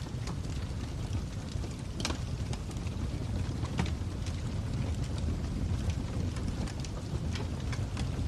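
Fire crackling: a steady low rumble of burning with irregular sharp snaps and pops, the strongest about two seconds in and just before four seconds.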